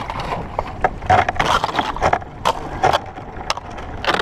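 Floating ice chunks scraping and knocking against a sea kayak's hull as it pushes through the ice floe, in a run of irregular sharp knocks and grinding scrapes.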